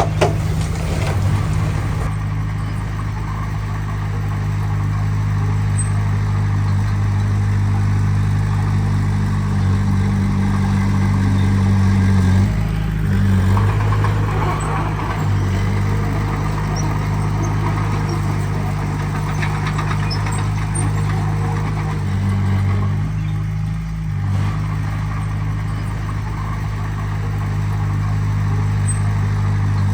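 Heavy diesel earthmoving machine engine running steadily, its note shifting briefly twice.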